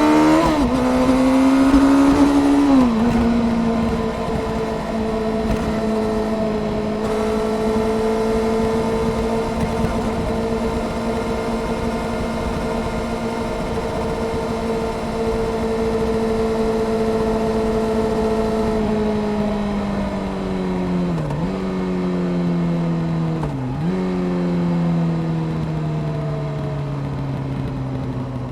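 Honda CBR600F Sport inline-four engine with a Delkevic aftermarket exhaust, heard from on the bike while riding. It pulls up through the revs and changes up a gear about three seconds in, then holds a steady cruise. Near the end it slows, with two downshifts, amid a rush of wind noise.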